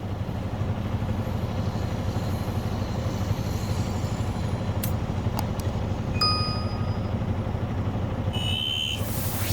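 Heavy diesel machinery running steadily: a low engine drone from the waiting dump truck and the excavators loading fill. A short electronic beep sounds about six seconds in, and a brief high tone near the end.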